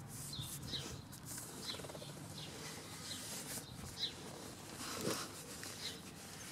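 Small birds chirping: short high chirps repeated every second or so, faint.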